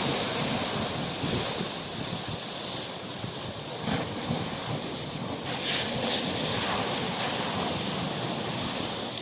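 Sea waves washing, with wind buffeting the microphone in uneven gusts.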